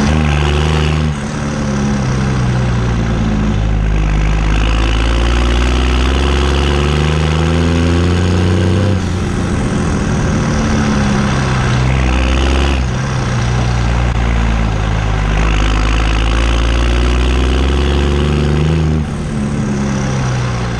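New Holland T6030 tractor engine running through a straight pipe. Its note climbs slowly and then drops back sharply, several times over.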